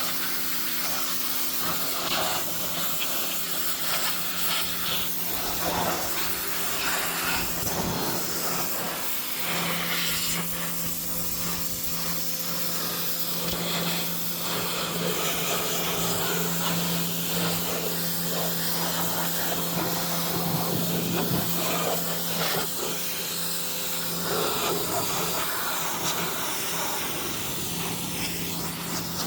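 A small machine running steadily: an even hum with a hiss over it, and scattered short scraping or rubbing noises.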